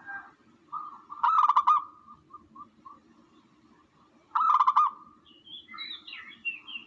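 Recorded bird calls: two loud, buzzy calls with a rapid pulsing trill, about three seconds apart, then a softer, higher chattering near the end.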